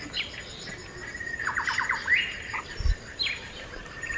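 Birds calling: several short, sharply falling chirps, a quick run of about five notes in the middle, then a rising call, over a thin steady high-pitched whine.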